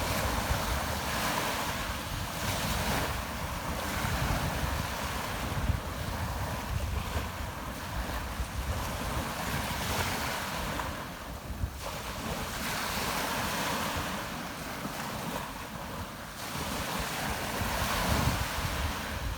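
Rough, storm-driven sea waves breaking and washing ashore, surging and easing every few seconds, with wind buffeting the microphone.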